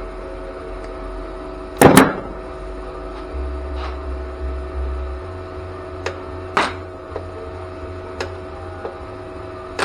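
A steady machine hum with a couple of fixed tones, broken by a few sharp clicks and knocks, the loudest a double knock about two seconds in.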